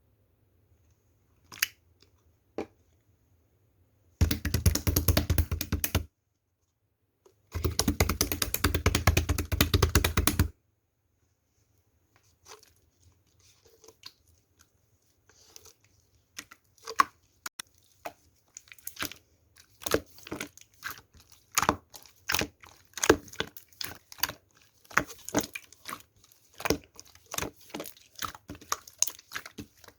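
Slime being squeezed and worked by hand. Two single pops come near the start, then two runs of dense, rapid crackling a few seconds each. After that, irregular clicking and popping grows busier toward the end.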